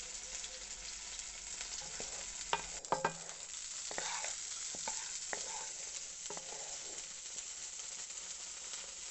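Sliced shallots, curry leaves, ginger and garlic sizzling steadily in hot coconut oil in a nonstick pan. A wooden spatula stirs them, knocking and scraping against the pan in the middle, loudest about three seconds in.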